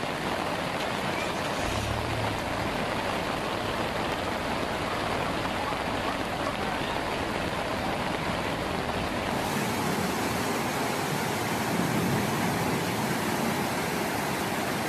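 Steady rushing water noise of heavy rain and running floodwater. The sound changes character about two seconds in and again a little past the middle.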